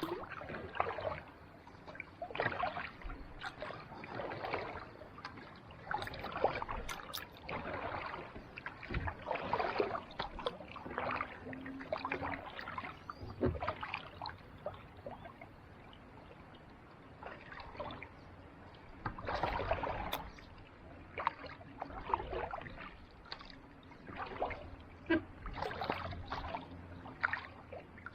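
Kayak paddle strokes on calm sea water: a steady run of small splashes and drips about once a second, easing off into a quiet lull about halfway through before the strokes pick up again.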